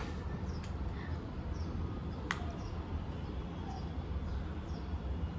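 Steady low background hum with faint, short high-pitched bird chirps repeating several times, and a single sharp click a little after two seconds in.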